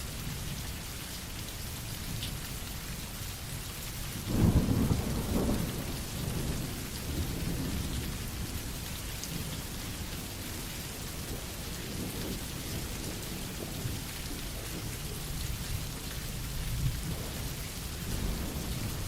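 Steady rain, with a loud rumble of thunder starting about four seconds in that fades over a couple of seconds, and fainter rumbles later on.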